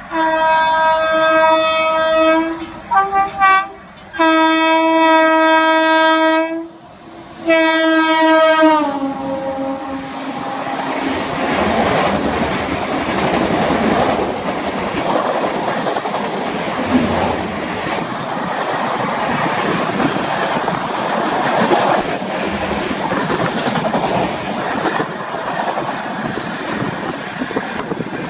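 Indian Railways locomotive horn sounding long blasts broken by a few short toots, its pitch falling as the locomotive passes about eight seconds in. The train then rushes past with a steady clatter of wheels on rail.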